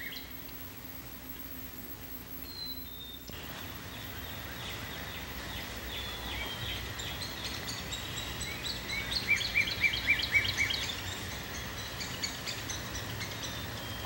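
Wild birds singing and chirping over a steady background hiss. The birdsong comes in about three seconds in, and its loudest part is a quick run of about seven bright repeated notes around nine to ten seconds in.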